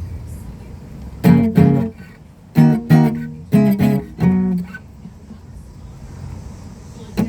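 A plucked string instrument playing about seven separate notes in short pairs over a couple of seconds, then falling quiet.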